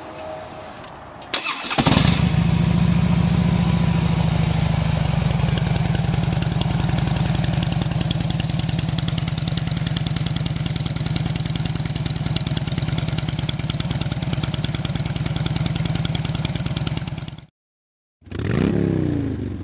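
2008 Harley-Davidson Street Glide's 96-cubic-inch V-twin starting about two seconds in and then idling steadily with an even pulse through slash-down pipes. After a brief cut near the end, the engine is blipped, its pitch rising and falling.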